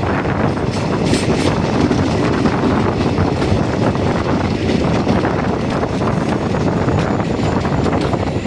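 Passenger train running at speed, heard from on board: a steady rumble with wind rushing over the microphone.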